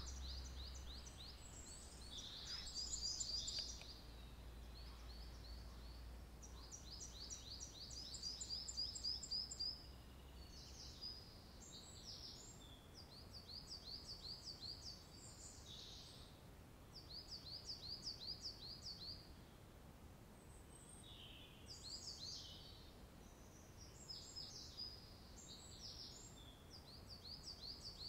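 Songbirds singing: repeated short phrases of quick, high notes, one phrase after another, with now and then a different call.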